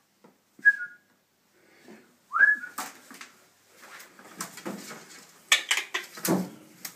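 Two short whistle-like notes, the first flat and the second sliding upward, then scattered knocking, scrabbling and rustling as a trapped bird moves about behind a washing machine.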